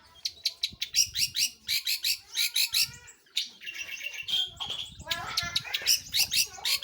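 Long-tailed shrike (pentet/cendet) singing a fast, busy song of sharp chirping notes, several a second, with a brief trilled run around the middle.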